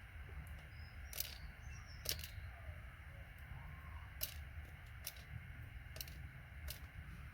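Small sharp clicks, about six at irregular intervals over a low steady hum, from gold-plated connector pins being pulled out of ribbon-cable connectors by hand.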